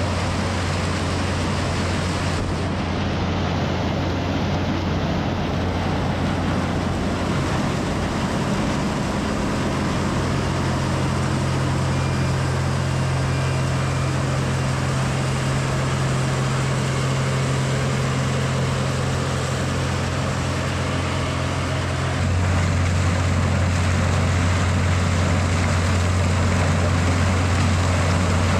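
Heavy farm machinery engine running steadily with a low hum, the sound shifting and getting a little louder about two-thirds of the way through.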